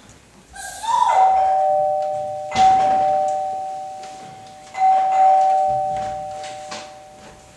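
Doorbell chime rung three times: two notes sound together at each ring and fade slowly before the next.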